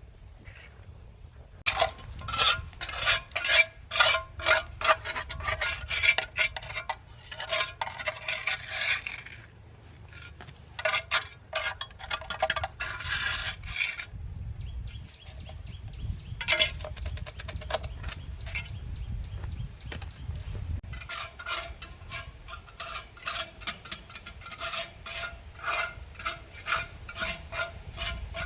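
A metal tool scraping and clinking in quick repeated strokes, several a second, in three spells with short pauses between.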